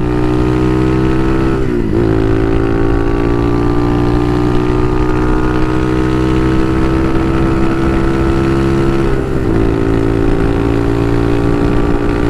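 Bashan Motomax 250 supermoto's single-cylinder engine running steadily under way. Its note dips briefly twice, about two seconds in and again about nine seconds in, then picks up again.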